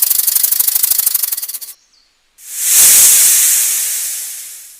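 A snake rattling fast with a buzzing rattle that stops abruptly, then a long loud hiss that slowly fades.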